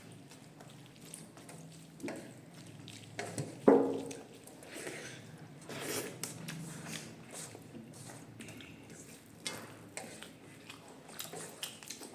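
Close-up eating sounds: chewing and wet mouth noises with scattered small clicks, and one sharper click about three and a half seconds in.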